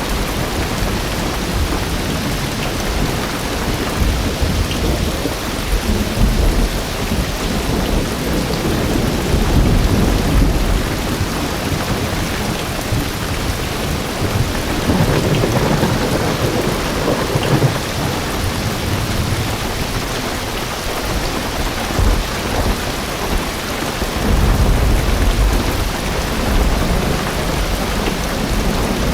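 Heavy rain drumming steadily on a car roof and windows, heard from inside the car, with deep thunder rumbles swelling up several times.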